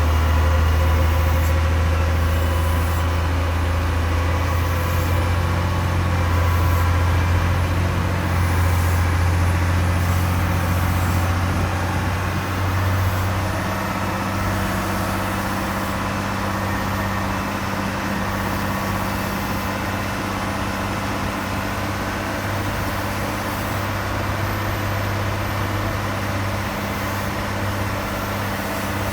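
Heavy aircraft ground noise during an Airbus A350 pushback: a steady deep mechanical drone with whining tones above it. The lowest hum eases a little about halfway through while a slightly higher hum holds steady.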